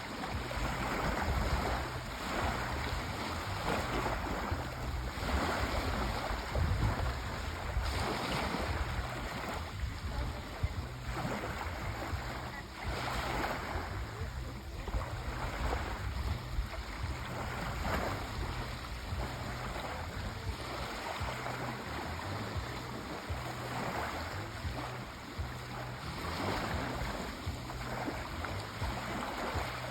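Sea waves breaking and washing on the shore, the surf swelling and ebbing every few seconds, with some wind rumble on the microphone.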